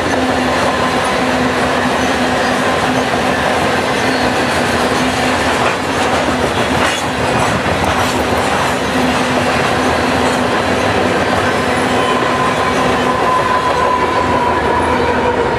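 Loaded covered grain hopper cars of a long freight train rolling past: a steady rumble and clatter of steel wheels on the rails, with a steady whine underneath and a few sharp clicks about halfway through. Near the end the rear distributed-power locomotive, a GE AC4400CW diesel, goes by and a higher tone comes in.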